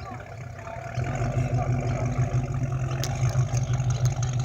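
A car's engine running as it drives in close by, growing louder about a second in and then holding a steady low note.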